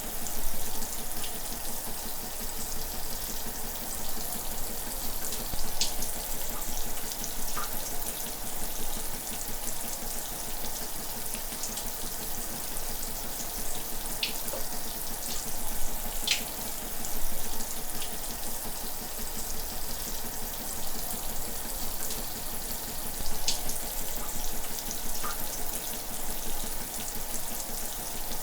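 Shower running steadily: a continuous hiss of falling water with small irregular splashes.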